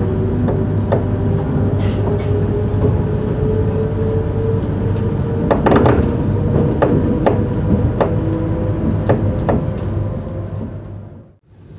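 SNCF Z 2N electric train motor car Z 20823 running: a motor tone rising steadily in pitch as it picks up speed, over rolling noise with a series of sharp clicks and knocks from the wheels. Near the end the sound fades almost to nothing and comes back.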